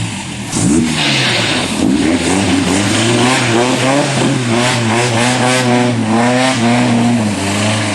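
Four-wheel-drive pickup mud truck's engine revving hard and holding high revs, the pitch wavering up and down as it strains under load. A rushing hiss rises over it about a second in.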